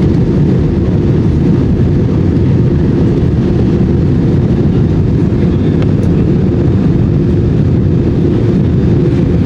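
Airbus A320 in flight on its descent: a steady, loud rumble of engine and airflow noise with a faint steady hum, unchanging throughout.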